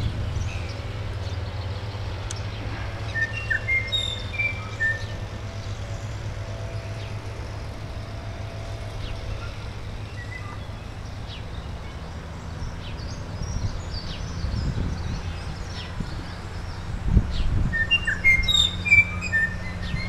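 Small songbirds chirping and tweeting in short, scattered notes, busiest a few seconds in and again near the end, over a steady low rumble.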